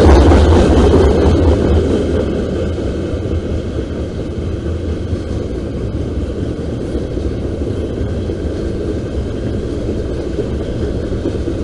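Freight train cars (covered hoppers and tank cars) rolling past close by, a steady rumble of steel wheels on the rails. It is louder for the first couple of seconds, then settles to a lower, even rumble.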